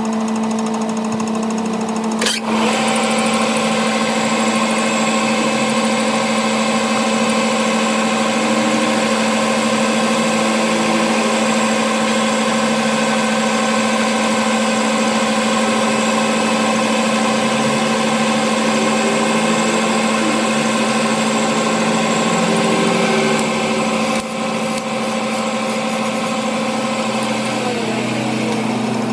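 An electric machine in a workshop running steadily with a constant hum. About two seconds in a click is heard and a higher whine joins; the whine slides down and dies away near the end, as if a motor is switched off and spins down.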